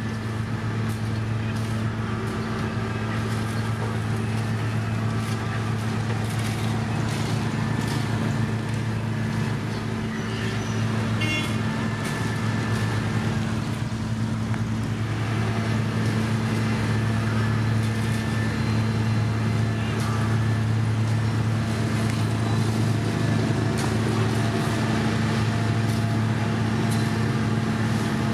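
Heavy road-construction machine's engine running steadily at an even speed, with light intermittent clicks and rattles.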